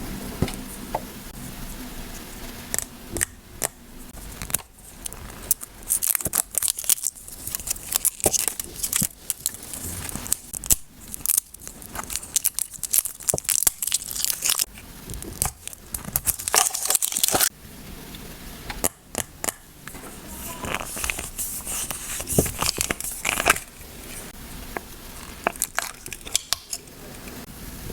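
Small slimes being squished and poked by hand, giving rapid sticky clicks, pops and crackles that come in dense stretches and ease off in between.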